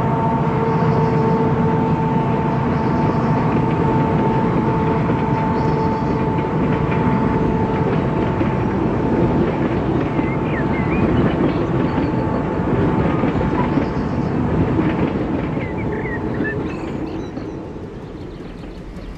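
A train running: a steady rumble with a held chord of tones that slowly sinks in pitch and fades about eight seconds in, and birds chirping in the second half.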